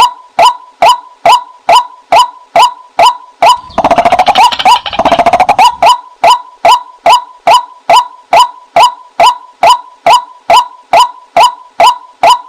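White-breasted waterhen calls used as a hunting lure, a female's call: short, loud 'kwak' notes repeated about twice a second, each dropping slightly in pitch. About four seconds in, the calls run together into a faster, denser chatter for about two seconds, then the steady beat returns.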